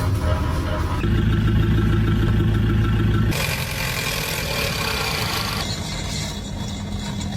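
A car running with a steady low engine hum. The sound changes abruptly about a second in, again at about three seconds and near six seconds, like separate recordings joined together.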